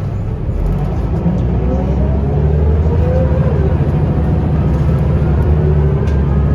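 Scania L94UB bus's diesel engine and ZF automatic gearbox pulling away under acceleration, heard from inside the bus. A gearbox whine rises, drops back about three and a half seconds in as the gearbox changes up, then climbs again over the steady engine note.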